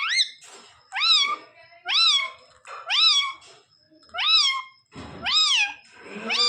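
Parrot repeating a meow-like call, each one rising then falling in pitch, about once a second.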